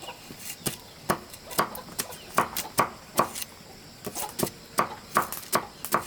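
Repeated chopping with a blade, sharp separate strikes about two to three a second, with a short pause a little past the middle.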